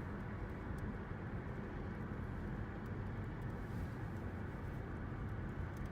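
Steady engine and road rumble heard from inside a car's cabin while driving.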